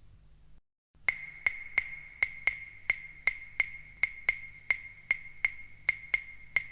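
After a brief silence, a lone percussion beat starts about a second in: sharp, woody knocks with a short bright ring, evenly spaced at close to three a second, counting in the opening of a song.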